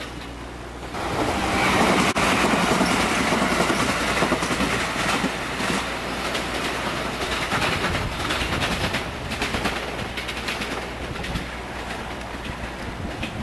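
JR 211-series electric multiple unit passing close by, its wheels clattering on the rails. The noise rises sharply about a second in, stays loud for a few seconds, then slowly fades as the train draws away.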